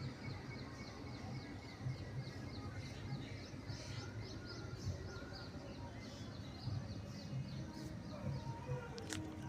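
Small birds chirping rapidly and repeatedly, over a steady low rumble.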